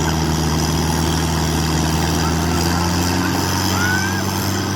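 Diesel tractor engine running at a steady speed, fading near the end.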